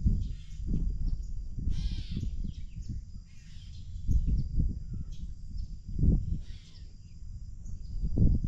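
A bird gives about four short, harsh cawing calls, the clearest about two seconds in. Underneath is a gusting low rumble of wind on the microphone.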